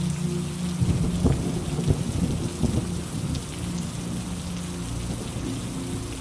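Steady heavy rain with a clap of thunder that breaks in about a second in, crackling and rumbling low for a couple of seconds before fading back under the rain.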